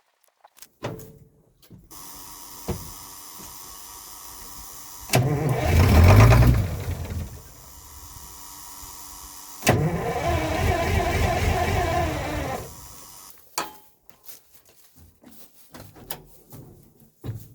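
Starter cranking the cold diesel engine of a 1985 Ford CL9000 cab-over semi in two loud bursts of a few seconds each, the first about five seconds in and the second about ten seconds in, with a steadier, quieter mechanical sound between them. This is a cold start attempt on freshly fitted batteries.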